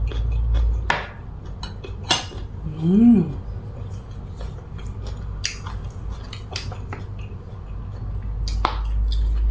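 Spoon and dishes clinking with scattered light clicks while food is eaten, over a steady low hum. About three seconds in, a short hummed 'mm' rises and falls.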